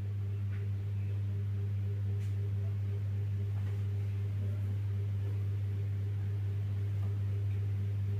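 A steady low hum, one unchanging tone with weaker overtones, with a few faint ticks.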